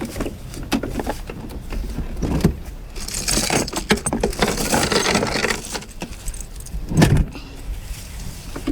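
Steel logging chain rattling and clinking as it is handled, with a dense jingle in the middle and a heavy thump about seven seconds in.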